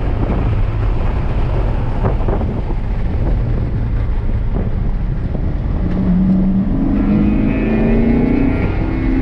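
Chevrolet C7 Corvette Grand Sport's 6.2-litre LT1 V8 heard from inside the cabin, running with a low drone over road and wind noise. About six seconds in, the engine note climbs as the car accelerates.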